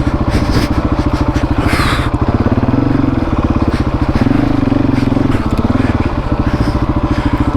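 Husqvarna 701 Enduro's single-cylinder engine running at low revs while being ridden slowly, its pitch rising and falling a little with the throttle.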